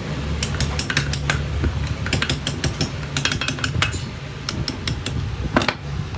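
A rapid, irregular run of light sharp clicks and taps, a few louder knocks among them, over a steady low hum.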